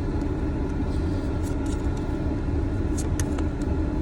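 Steady low rumble inside a parked car's cabin, with a few faint short clicks of trading cards being handled about three seconds in.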